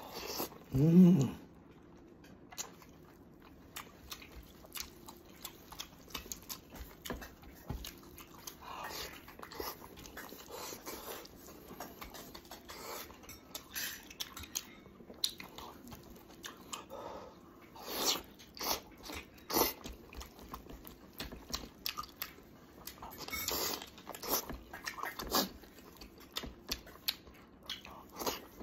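A man chewing and biting braised pig's head meat pulled off the bone by hand, with wet smacking and crunching in irregular clicks throughout. A short, loud hummed vocal sound comes about a second in.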